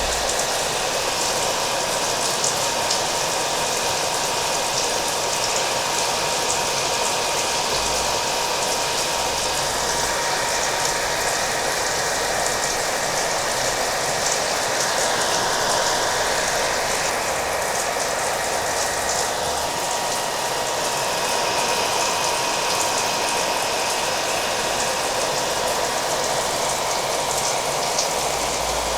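A hair dryer running steadily, its motor giving a constant whine, layered with steady rain pattering.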